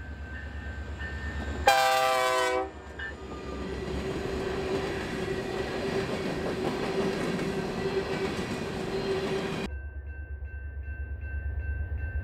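Freight train diesel locomotive sounding one short blast on its multi-tone air horn, then the steady rushing and rumbling of the train rolling by on the rails. A low pulsing diesel engine rumble is heard before the horn and again near the end, where the sound changes abruptly.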